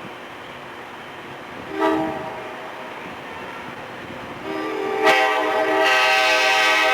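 Locomotive air horn sounding a short toot, then, about three seconds later, a long loud blast that swells and holds.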